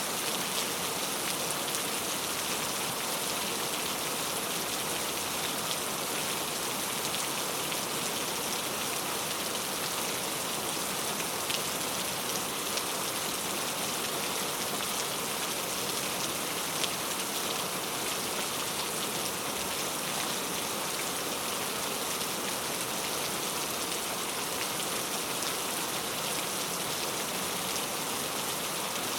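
Steady rain falling, an even hiss of drops with the odd louder single drop standing out.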